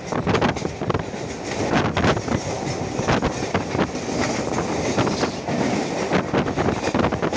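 Mumbai suburban electric local train running past at close range, its wheels clattering over the rail joints in a steady, uneven run of clicks.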